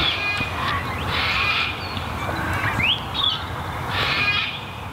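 Birds calling in several bouts, with short rising chirps between them, over a steady low rumble.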